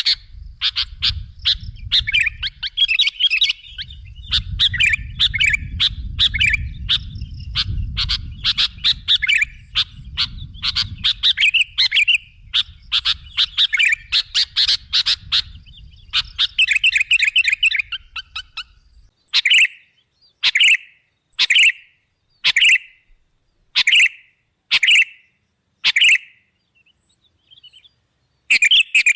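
Sooty-headed bulbul (kutilang) singing: quick chattering phrases of chirps over a low rumble. About two-thirds of the way through, the song gives way to a run of seven short separate calls, falls silent briefly, and the chattering starts again near the end.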